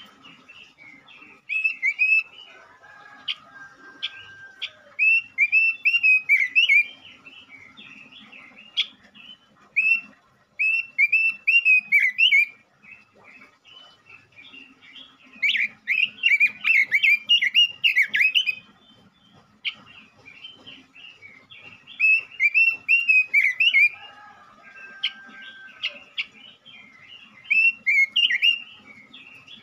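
Male Pekin robin (red-billed leiothrix) singing: bursts of rapid warbling chirps a few seconds long, separated by short pauses, with a lower drawn-out whistle twice. This is the song used as a lure to make caged robins sing.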